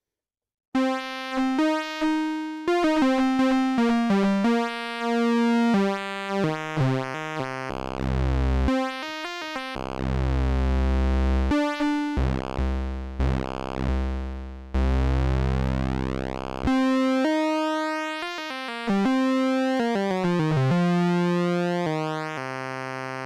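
Little Monster VCO, an analog Eurorack oscillator, playing a run of separate notes at varying pitches from under a second in. On each note an Anvilope envelope sweeps the width of its pulse wave, so the tone changes within every note.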